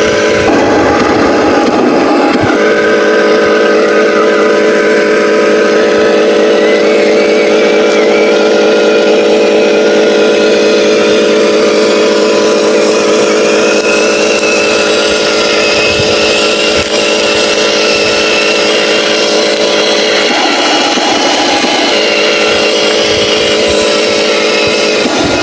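Remote-control Scania truck's simulated engine sound: a steady, even engine drone that changes briefly twice, near the start and about 20 seconds in.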